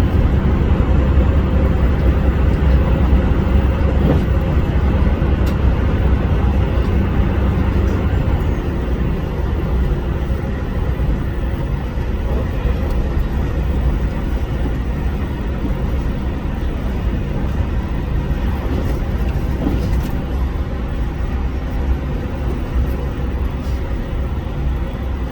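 HOT7000 series diesel railcar under way: a steady low rumble of its engines and running gear, easing slightly in loudness over the stretch.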